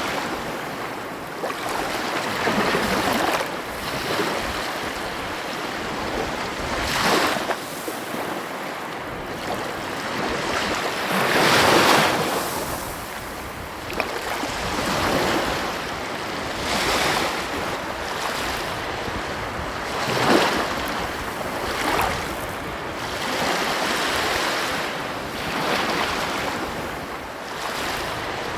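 Ocean surf: waves breaking and washing up the shore in repeated swells every few seconds, the loudest about twelve seconds in, with some wind.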